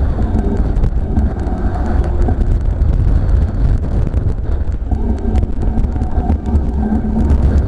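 Strong gusty wind buffeting the microphone, a deep steady rumble peppered with frequent small clicks and ticks.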